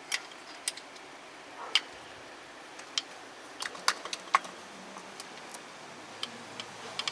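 Irregular sharp metallic clicks and taps of a bolt and hand tools against the starter and engine block while the starter's mounting bolt is being threaded in, several close together around the middle.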